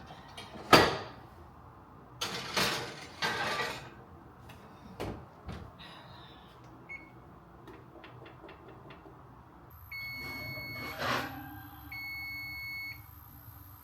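Handling noises: a sharp knock and a few bursts of rustling, then a quick run of small clicks. Near the end come two long, steady electronic beeps, the first about a second and a half long.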